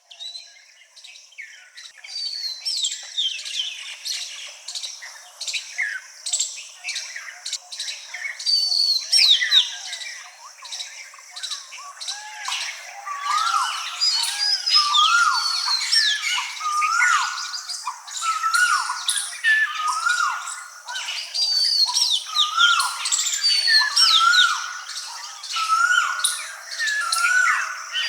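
Many wild birds calling together, with dense chirps, squawks and whistled notes overlapping. From about halfway through, one lower hooked call repeats about once a second.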